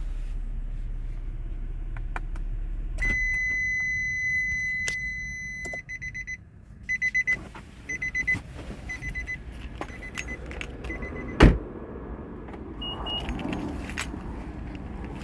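The 2020 Nissan Maxima's 3.5-litre V6 runs, then is switched off about three seconds in. A car warning chime sounds as one steady tone and then as a string of short repeated beeps. About eleven seconds in comes a single loud thump, the car door shutting, followed by a brief higher beep and some jingling of keys.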